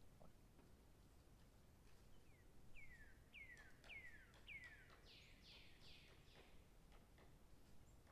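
Faint bird song: a run of quick downward-sliding whistled notes, about two a second, with the last few rougher and wider, over a low background hum.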